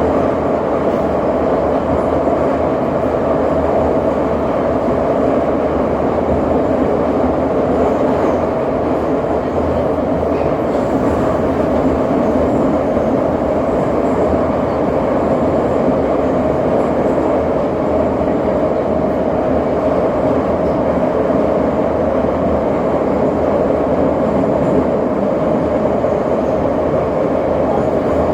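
Train running steadily along the track, heard from on board: a continuous rolling rumble and hum that stays even throughout.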